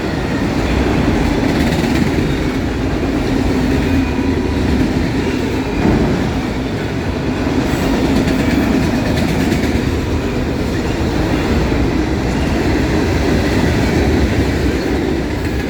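Freight cars of a Norfolk Southern mixed freight train rolling past: a steady, loud rumble of steel wheels on the rails.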